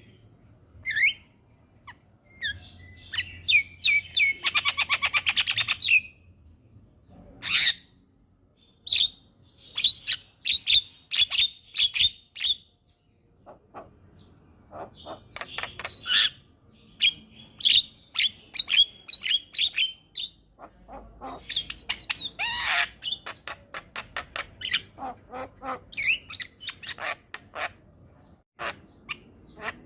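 Javan myna (jalak kebo) singing a varied, chattering song of sharp chirps, whistles and harsh notes, with a fast rattling trill about four seconds in.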